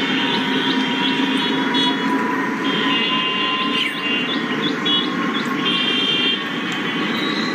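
A motor running steadily, with a thin tone that slowly creeps up in pitch and groups of short high chirps coming and going over it.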